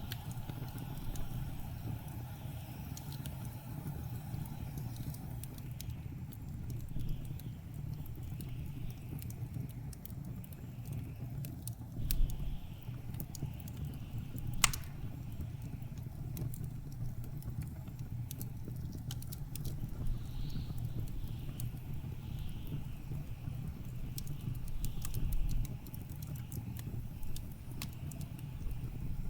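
Wood fire crackling in a fireplace, with scattered small pops and one sharper pop about halfway through, over the steady low rumble of blizzard wind.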